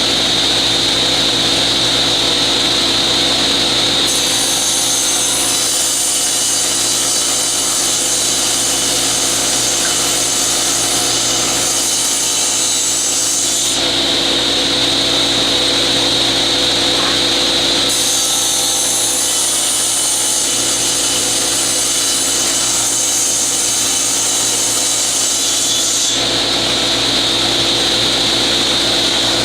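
General Model 350 table saw and a dust collector running steadily, the blade ripping yellow poplar boards to width twice. Each cut lasts several seconds and adds a high hiss over the steady hum of the motors.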